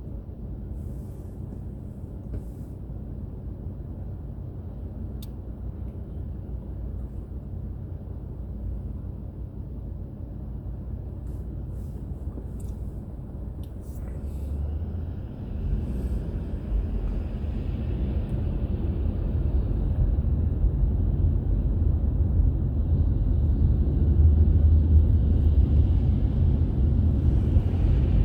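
Car driving on the road: a steady low rumble of engine and tyre noise that grows louder and fuller from about halfway through.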